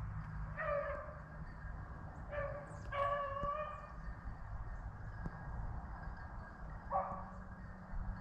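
A pack of rabbit hounds giving tongue on a rabbit's trail: a few separate bays and yips, one drawn out for about a second, heard at a distance.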